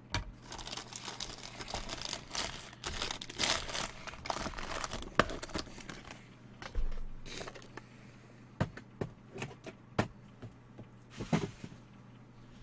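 Plastic wrapping of a sealed trading-card box or pack crinkling and tearing as it is opened, for about six seconds. Then a few separate light clicks and taps.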